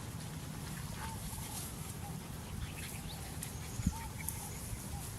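Short bird chirps every second or so over a steady low rumble, with a single thump about four seconds in.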